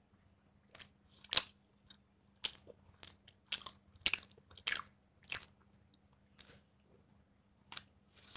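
Close-up chewing of a butter-toasted pav bun with paneer bhurji: a run of about ten crisp, crunchy bites and chews, irregular and roughly two a second, with a short pause near the end.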